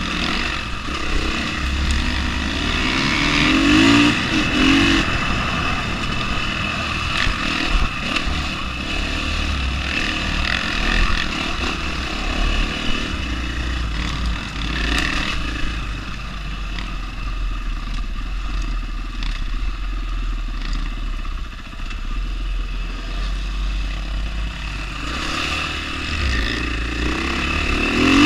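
2020 KTM 500 single-cylinder four-stroke dirt bike running along a rough trail, the throttle rolling on and off. Its engine note rises in rev bursts a few seconds in and again near the end.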